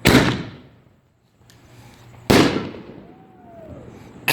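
Consumer fireworks exploding: two loud bangs about two seconds apart, each trailing off in a fading echo, with a third bang right at the end.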